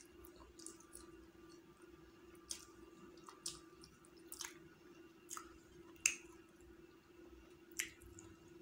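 Person chewing biryani: faint wet mouth clicks and smacks, about eight of them scattered, short and sharp, over a steady low hum.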